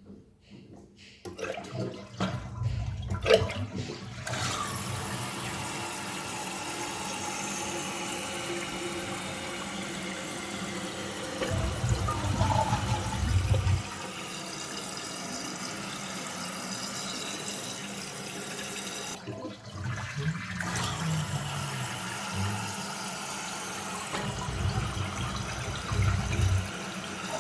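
Toilet flushing: water rushing through the bowl, then the tank refilling, worked by a newly fitted side-mount tank lever. There are short breaks in the sound near the start and about two-thirds of the way through.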